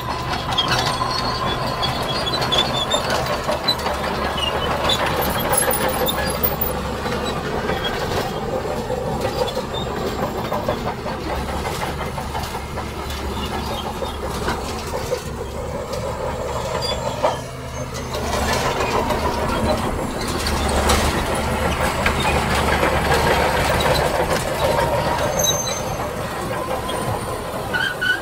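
Heavy earthmoving machinery working sand: a steady diesel engine with continuous metallic clatter and squealing, typical of steel crawler tracks. The level drops briefly about seventeen seconds in.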